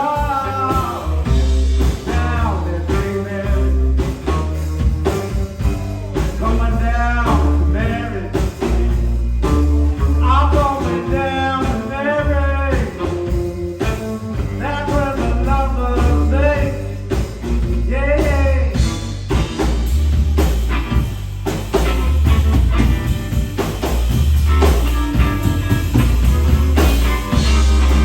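Live band of electric guitar, bass guitar and drums playing a blues-rock song with singing, the bass heavy and pulsing underneath.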